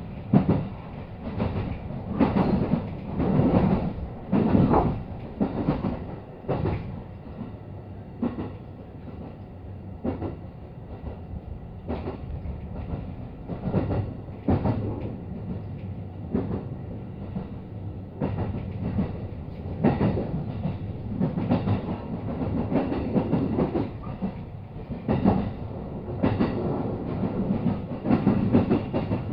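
JR West 223 series electric train running, heard from inside the passenger car: a steady low rumble with irregular clacks as the wheels pass over rail joints.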